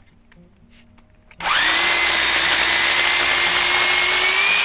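DeKoPro 8-amp corded electric pole chainsaw switched on about a second and a half in. Its motor spins up at once to a steady, high-pitched whine with the chain running, rising a little in pitch near the end.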